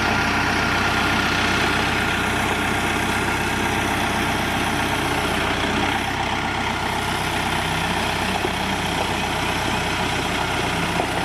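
Tractor engine running steadily at a constant idle-like speed, with no change in pitch.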